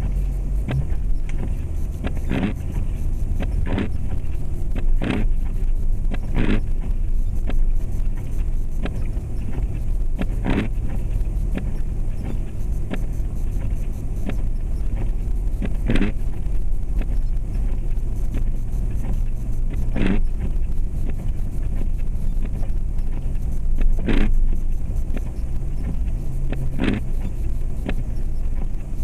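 Cabin sound of a 2004 Jeep Grand Cherokee's 4.7 L V8 driving on snowy roads: a steady engine and road rumble whose pitch shifts a few times, with short knocks or rattles every one to four seconds.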